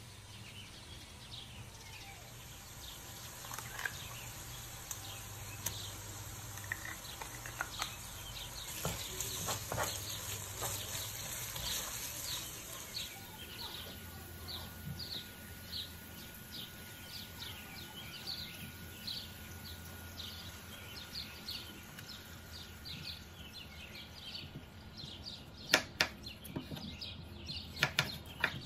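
Peppers and mince sizzling in oil in a pot, with sharp knife strikes on a wooden cutting board near the end as potatoes are cut in half.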